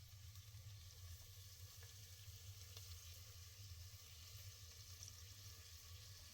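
Near silence: a faint steady hiss over a low hum.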